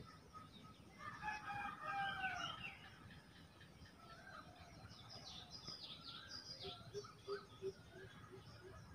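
Faint bird calls: a longer wavering call about a second in, then quick high chirps that fall in pitch around the middle, and a run of soft, evenly spaced notes near the end.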